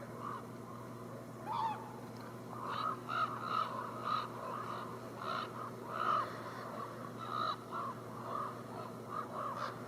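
Crows cawing repeatedly, a dozen or so short calls in quick succession, starting about a second and a half in.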